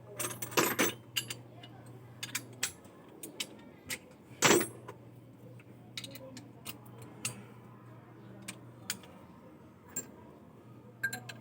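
Scattered metallic clicks and clinks of hand tools against engine parts during repair work, with a cluster near the start and one louder knock about four and a half seconds in. A low steady hum runs underneath, dropping out about halfway and returning near the end.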